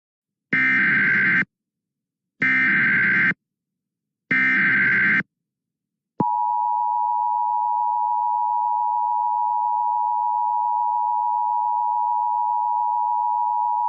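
Emergency alert broadcast of a flash flood warning: three short electronic data bursts (the coded alert header) about two seconds apart, then, about six seconds in, the steady two-tone attention signal that runs on until the spoken warning starts.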